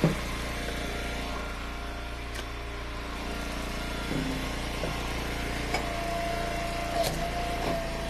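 Eastonmade Ultra hydraulic wood splitter's small engine running steadily, with a thin whine that grows stronger in the second half and a few sharp knocks as the wood is worked.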